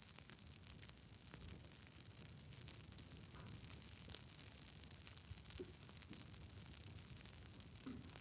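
Wood campfire crackling: a steady faint hiss with frequent small, sharp pops and snaps scattered irregularly throughout.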